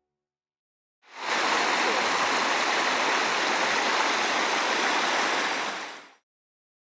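Steady rush of running water, fading in about a second in and fading out about a second before the end.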